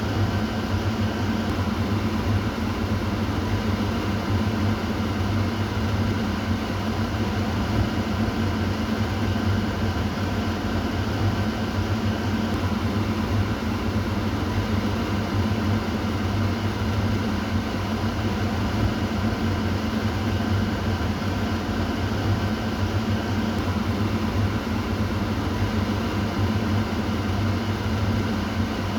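Kitchen exhaust fan running steadily: a constant low hum under an even rush of air, with no change in speed.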